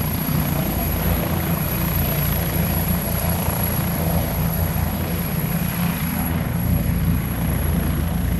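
Passenger helicopter's rotors and turbine engines running steadily at close range.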